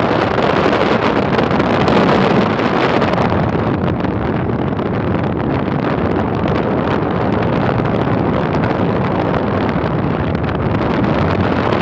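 Steady, loud wind rushing over the microphone, an even roar with no breaks.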